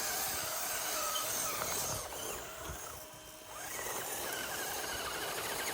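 Axial SCX24 RC crawler's PN Racing PN90 Magnum motor and gears whining as it drives, the pitch rising and falling with throttle; it drops off about two seconds in and picks up again near four seconds.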